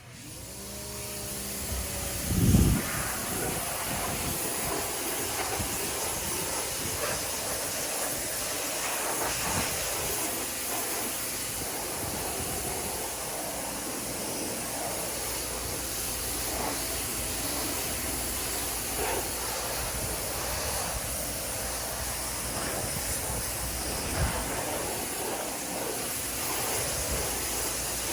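Steady hissing spray of water on vinyl siding, with one short thump about two and a half seconds in.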